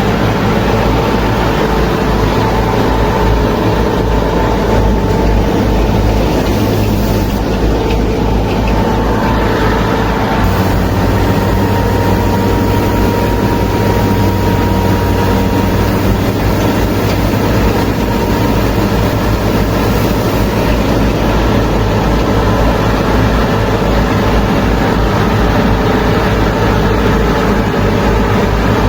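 Mini tractor's motor running steadily and loudly throughout, with a low throb and a faint steady whine.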